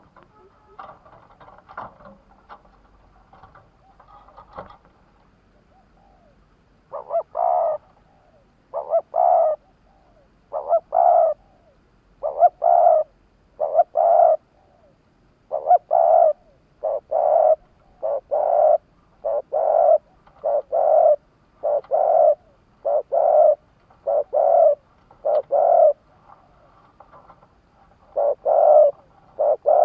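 Decoy spotted dove cooing over and over, the rapid repeated calling used to draw wild doves in. The coos begin about seven seconds in and come roughly once every second and a half, with a short pause near the end.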